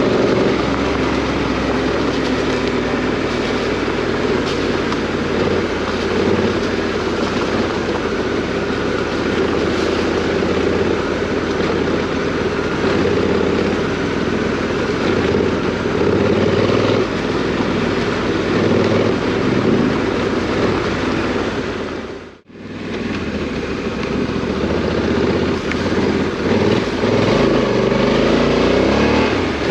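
Parallel-twin adventure motorcycle engine under way off-road, its pitch rising and falling as the throttle is opened and closed. The sound drops out for a split second about three quarters of the way through, then picks up again.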